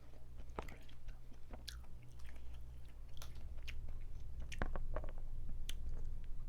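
Close-miked eating of Cajun-boiled crawfish: wet chewing with scattered sharp clicks and crackles of shell being bitten and broken, over a steady low hum.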